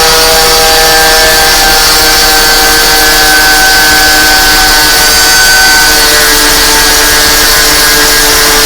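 Angle grinder fitted with a cylinder honing stone running steadily against the inside of a motorcycle brake drum: a steady motor whine over the grinding rub of stone on metal, as it takes the scoring out of the drum's braking surface.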